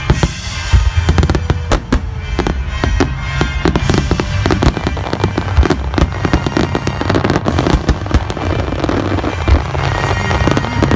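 Aerial fireworks bursting in rapid succession, many sharp bangs with dense crackling building in the second half, over music from the show's loudspeakers.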